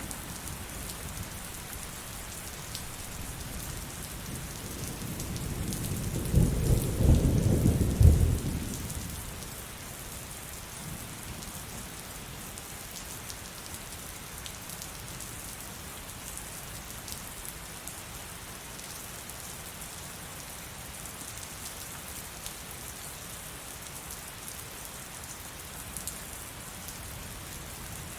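Steady heavy rain falling, with a roll of thunder that builds about four seconds in, rumbles loudest for a couple of seconds and fades out by about ten seconds in.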